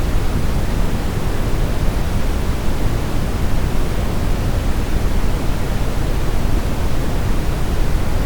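Continuous brown noise: a steady, deep rush with most of its weight in the low end, thinning out toward the high pitches and never changing.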